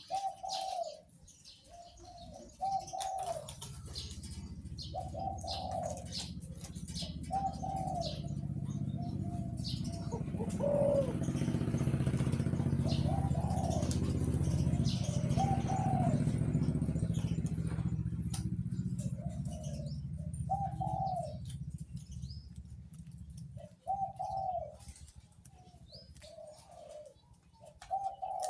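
A caged dove cooing with a deep voice, its short coos repeating in runs throughout. A low rumble swells up and fades away through the middle, and small birds chirp faintly.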